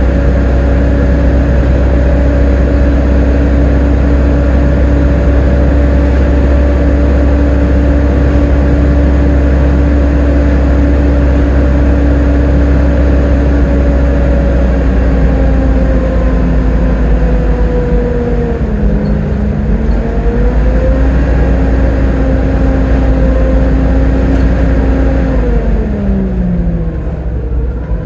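Volvo B7TL double-decker bus engine running under way, a heavy low rumble with a steady whine on top, the whine the enthusiast calls its 'hoover'. The revs dip and recover about two-thirds of the way in, then fall away steadily near the end.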